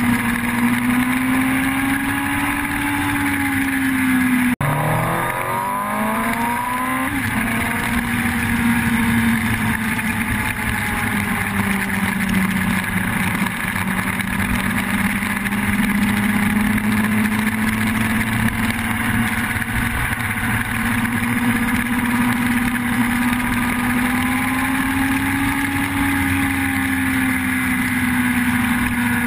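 Yamaha YZF-R1 inline-four motorcycle engine running at a fairly steady speed, its pitch drifting slowly up and down. About four and a half seconds in, the sound breaks off abruptly and comes back with a quick rise in revs, then settles to a steady, slightly lower note and rises a little again near the end.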